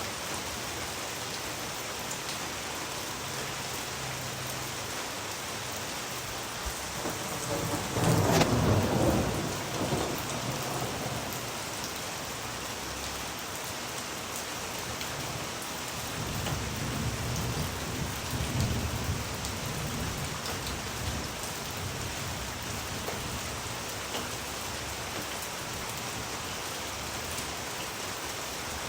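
Steady rain falling, with a loud thunderclap rumbling about eight seconds in and a second, softer roll of thunder a few seconds later.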